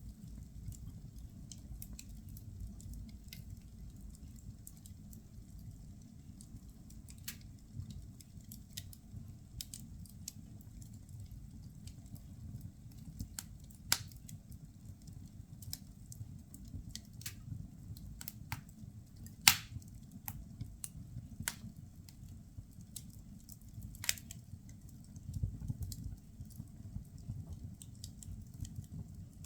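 Firewood burning in a fireplace, crackling with irregular sharp pops and snaps over a low steady rumble of the fire. Two pops, about halfway through and about two-thirds through, stand out as the loudest.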